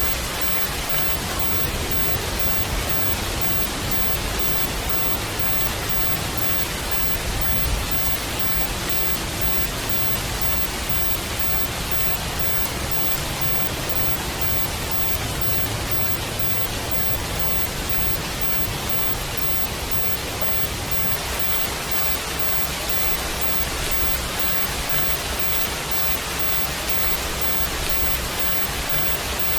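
Steady rain ambience: an even, unbroken hiss of rainfall with no single drops or thunder standing out.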